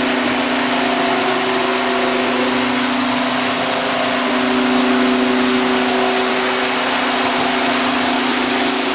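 A motor running steadily: a constant-pitched hum over a rushing noise, with no change in speed.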